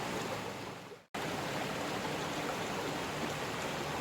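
Steady rushing of water from a waterfall. It fades out about a second in, then cuts back in abruptly and carries on unchanged.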